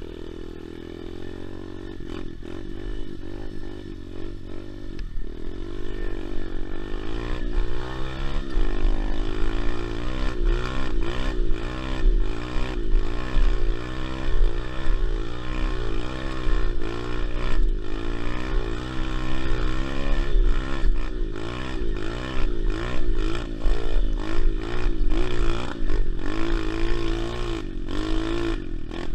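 SSR 125 pit bike's single-cylinder four-stroke engine being ridden hard, revving up and falling back again and again. It grows louder over the first several seconds.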